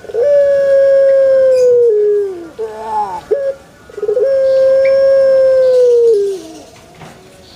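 Male Barbary dove (puter) cooing: two long drawn-out notes, each held steady and then dropping in pitch at the end, with short swooping notes between them.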